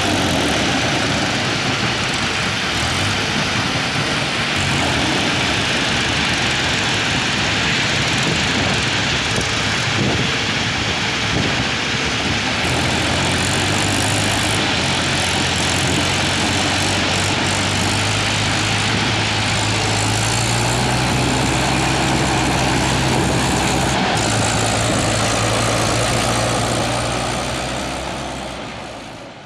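Heavy vehicle engine running steadily under a thick, even rush of noise, its pitch stepping up slightly a couple of times; fades out at the end.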